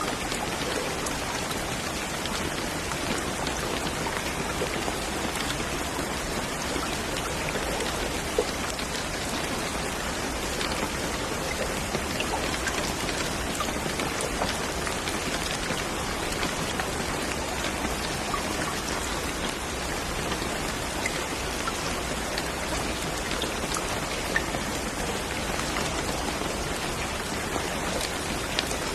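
Steady rain falling, an even hiss with many scattered drops pattering on a surface.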